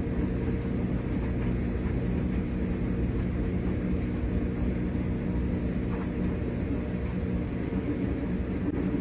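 RCA RPW302 portable washing machine running, a steady low motor hum with no change in level.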